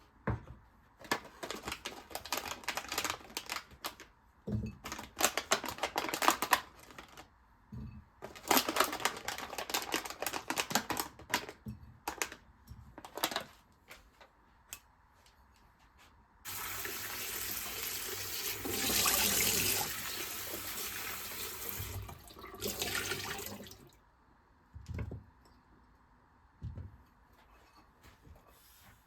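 Irregular clattering and knocking of kitchen items, then a kitchen tap running steadily for about seven seconds before it stops, followed by a few faint knocks.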